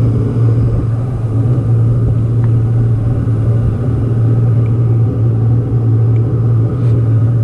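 Boat motor running steadily under way, a constant low drone with a rumble beneath it.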